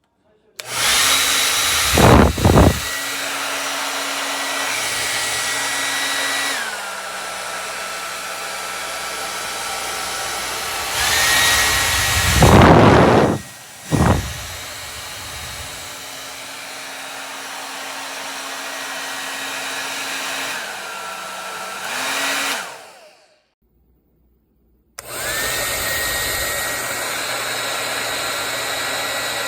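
Drhob 1300W folding hair dryer running, its motor whine and rush of air stepping between speed settings: it drops to a lower speed about six seconds in, rises again, and winds down and stops a few seconds before the end, then starts up again on high. It gives two loud rushing gusts, one early and one near the middle.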